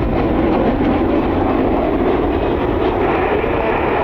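Steady roar of jet airliner engines mixed with wind buffeting the microphone; a higher hiss comes up about three seconds in.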